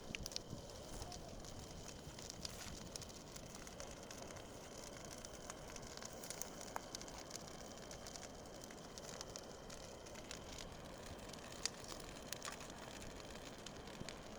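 Bonfire crackling faintly: a steady low hiss with scattered sharp pops.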